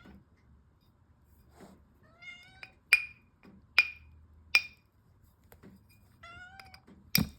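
A house cat meowing twice, a few seconds apart. Between the meows come three sharp clinks about a second apart, and a louder knock comes near the end.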